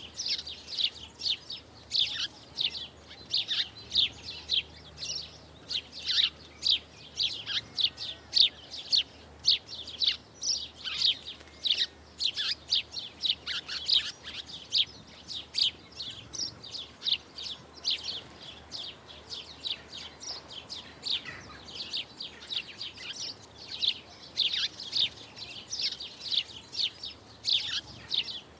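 Small songbirds chirping: many short, high chirps in quick succession, with a sparser spell about two-thirds of the way through.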